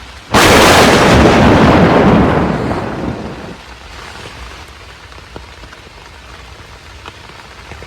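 A sudden, very loud thunderclap that rumbles and fades over about three seconds, over steady heavy rain.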